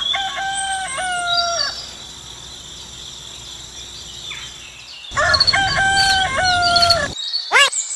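Rooster crowing twice, the second crow about five seconds after the first, each about two seconds long, with faint bird chirping behind and a few short arching bird calls near the end.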